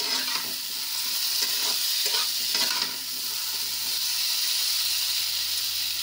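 Potato and pointed gourd pieces sizzling in hot oil in a kadhai, with a spatula stirring and scraping through them; the scraping strokes come several times in the first three seconds, then a steady sizzle.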